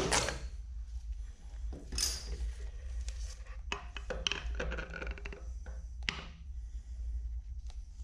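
A last soft-mallet tap on the milling machine spindle, then metal parts clinking and clattering as they are handled and set down, over a steady low hum.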